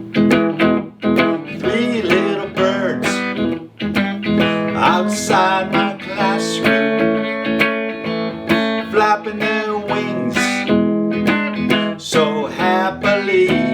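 Instrumental song intro: acoustic guitar strumming a steady rhythm.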